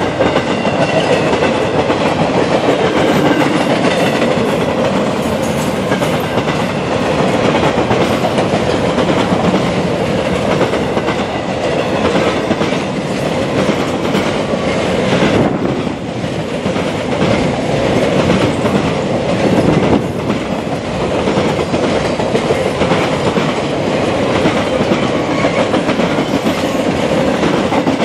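A long freight-hauled carnival train's railcars rolling past at speed, a steady rumble with wheels clicking over the rail joints.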